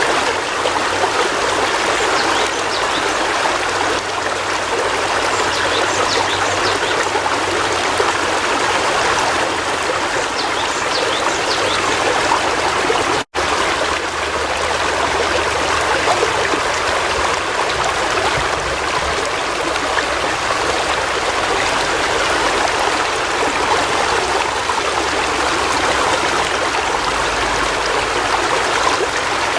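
River water flowing: a steady rush of water, broken by a split-second dropout about halfway through.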